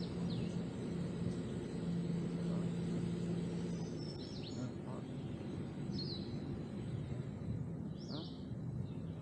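A vehicle's low engine hum over steady road and outdoor noise, fading about halfway through, while a bird gives short, high, downward-sliding chirps four or five times.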